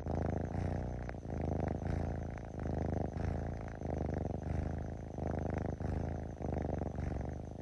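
Domestic cat purring close to the microphone, its level swelling and fading about once a second with each breath in and out.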